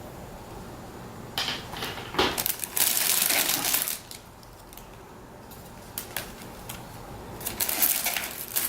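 Plastic packaging crinkling in two bursts as wrapped resin kit parts are handled, with a few light clicks in between.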